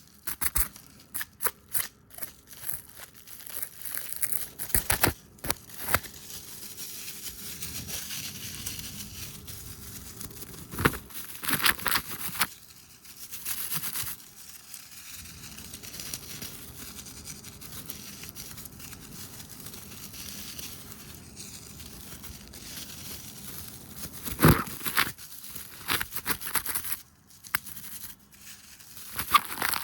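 Fast ASMR trigger sounds right at the microphone: long stretches of rubbing and brushing hiss broken by clusters of sharp taps and crackles.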